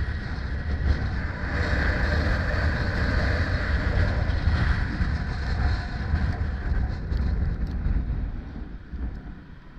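Wind buffeting the microphone during a ride: a steady, loud rushing with heavy low rumble, easing off near the end.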